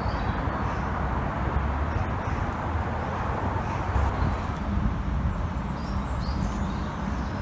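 Steady rush of a fast-flowing river swollen by heavy rain, with a few faint bird chirps.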